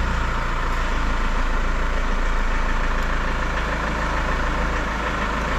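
Chevrolet Orlando's turbodiesel engine idling steadily, just after being started.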